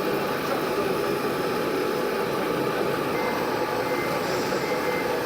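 Diesel engines of a Fendt tractor and a MAN truck running steadily as they drive along side by side, the tractor trying to overtake.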